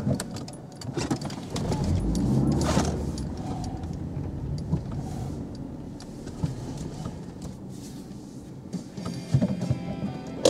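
Car engine heard from inside the cabin, running at low speed as the car manoeuvres into a parking space and stops. Scattered light clicks and knocks are heard over it, with the engine loudest about two to three seconds in.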